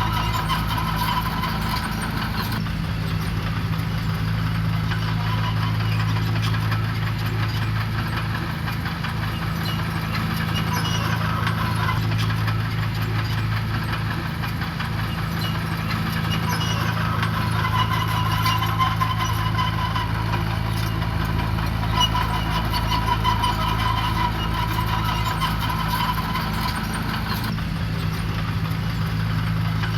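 Diesel engine of heavy construction equipment running steadily, its note shifting slightly about two and a half seconds in and again near the end.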